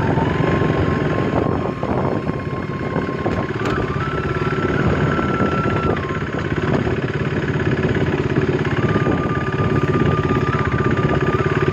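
Motorcycle engine running under way, a steady drone whose pitch holds, then steps up or down a few times as the revs change.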